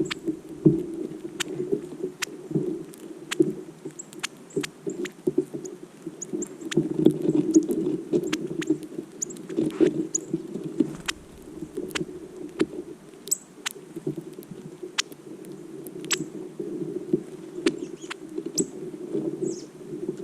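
Birds at a feeder in the snow: many short, sharp chip notes and scattered clicks and taps, over a steady low background rumble.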